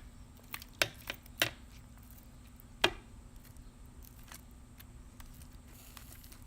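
Cooking utensil knocking against a pan while chicken drumsticks are stirred in an adobo braising liquid: four sharp knocks in the first three seconds, with a few fainter clicks.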